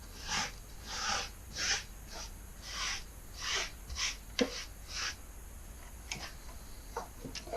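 Repeated short swishing strokes, about one and a half a second, of wiping or scrubbing old grease out of a garage door opener's gear housing, with a light knock about four and a half seconds in.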